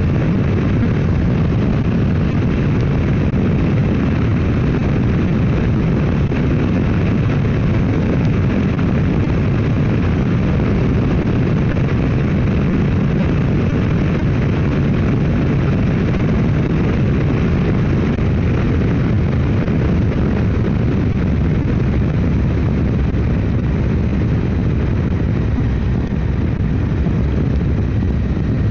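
Motorcycle cruising at steady speed: the engine runs evenly under a constant rush of wind noise.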